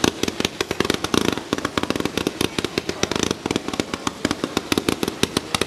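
Fireworks display: a dense, rapid run of bangs and crackles, many a second, without a break.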